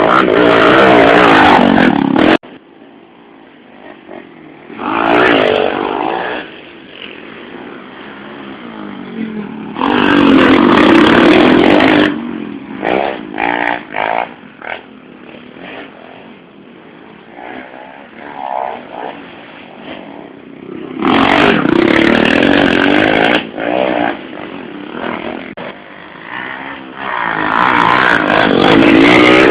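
110cc motorcycles racing past one after another, their engines revving up and down as each goes by loudly, about five times, with fainter engines running in between.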